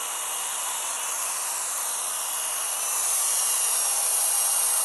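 Battery-powered RC helicopter's small electric motor and rotors whirring in flight: a steady high-pitched hiss with a faint whine, getting louder about three seconds in.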